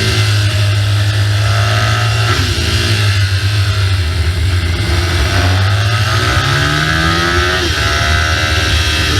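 BMW R1200GS boxer-twin engine under way on the road. The revs fall about two seconds in, climb again through the middle and drop once more near the end.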